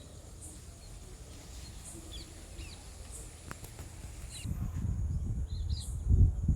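Outdoor ambience of small birds chirping a few short notes, with a faint high pulsing call repeating about once a second. From about four and a half seconds in, a low rumbling noise rises on the microphone and is loudest near the end.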